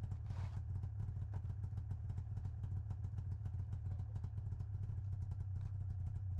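Snowmobile engine running steadily, a low hum with a fast, even pulse, as it packs down a snowed-in trail.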